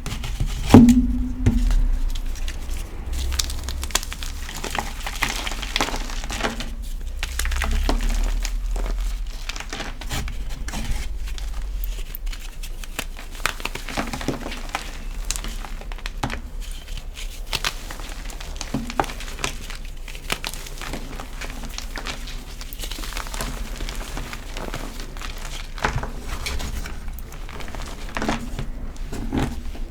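Extra-crispy gym chalk crunching and crumbling as it is crushed in the hands, a dense run of small irregular crackles with a louder snap about a second in.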